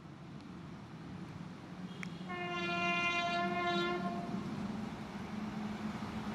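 Electric locomotive's horn sounding one blast of about two seconds, starting a little past two seconds in, over the rising rumble of an approaching high-speed train.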